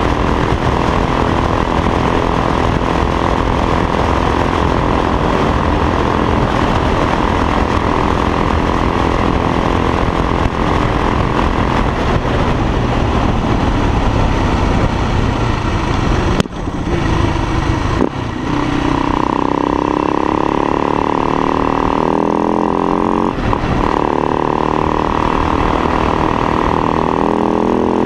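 Motorcycle engine running at road speed under a constant rush of noise. About two-thirds through, the engine note drops out briefly twice, then climbs in pitch as the bike accelerates.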